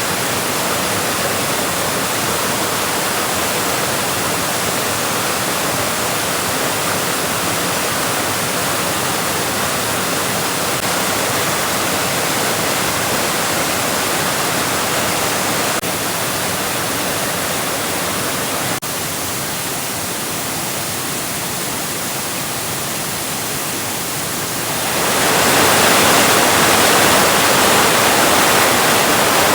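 Waterfall rushing steadily as an even roar of falling water. It dips slightly about two-thirds of the way through and grows louder near the end.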